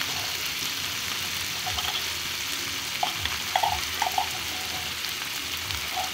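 Onions, garlic and canned corned beef sizzling steadily in hot oil in a frying pan. A few short knocks about halfway through come from a wooden stick scraping the meat out of the tin can.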